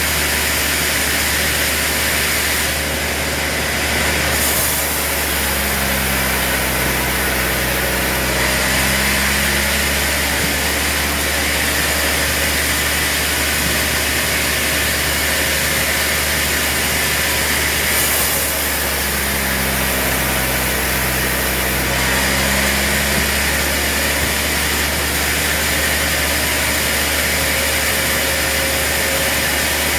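Sawmill machinery running steadily. Twice, about a fifth of the way in and again past the middle, a deeper engine note swells and fades over a few seconds.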